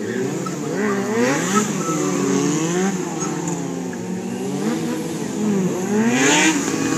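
Sport-bike engines revving up and down over and over as stunt riders hold wheelies and stoppies, two bikes at once. A short hiss comes about six seconds in.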